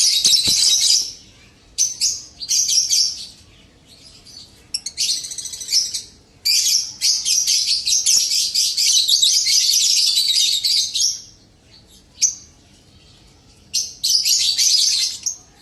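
Lovebirds chattering: fast, shrill, dense chirping in several bouts, the longest lasting about four seconds, with short quiet gaps between them.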